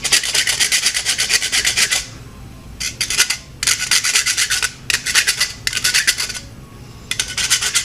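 Steel wood rasp scraping across a hard nylon dog chew in quick back-and-forth strokes, coming in several runs with short pauses between. The rasp is filing away the sharp, chewed edges of the bone to make it smooth again.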